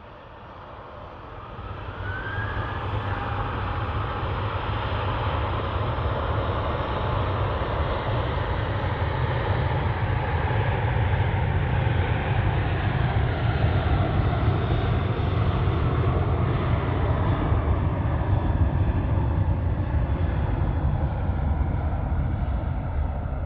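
Jet airliner engines passing nearby. The noise swells about two seconds in and stays loud, with a deep rumble under a whine that slowly falls in pitch.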